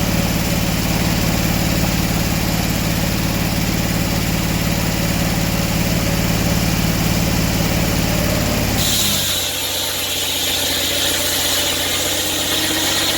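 An engine running steadily at idle; about nine seconds in its low hum falls away and a higher hiss takes over.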